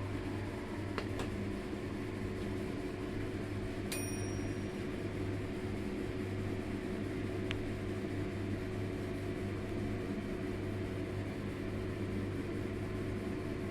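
Steady machine hum, like a running kitchen appliance or fan, with a few light clicks and one short ringing tap about four seconds in.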